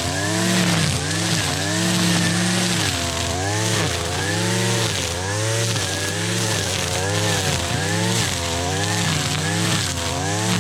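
Gas string trimmer (weed eater) with a string head running and cutting tall grass and weeds, its engine pitch rising and falling about once a second as the throttle is worked and the line bogs in the growth.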